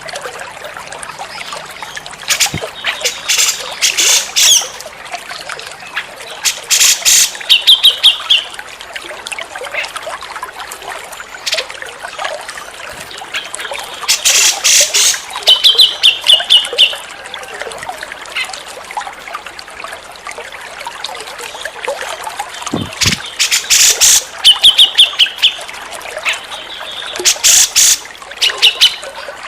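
Grey-cheeked bulbul (cucak jenggot) singing in repeated phrases about every eight to ten seconds: loud, harsh chattering bursts, each followed by a short trill of quick repeated high notes. A steady trickle of running water sounds underneath.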